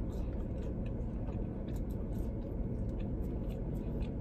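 Chewing a mouthful of french fries: faint, irregular crunches and mouth clicks over a steady low rumble inside a parked car.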